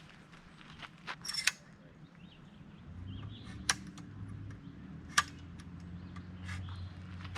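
A few sharp clicks and knocks of objects being handled, with a low steady hum coming in about three seconds in.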